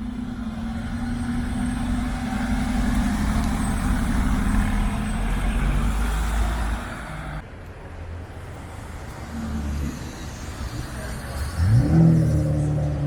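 Car engine running steadily, then after an abrupt change another car engine revs up sharply near the end and settles into a steady note.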